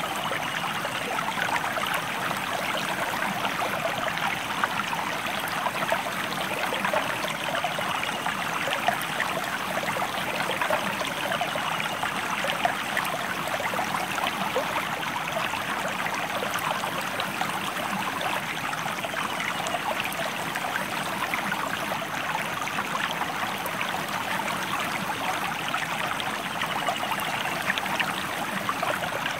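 Stream water flowing steadily, a continuous rush of many small splashes with no pauses.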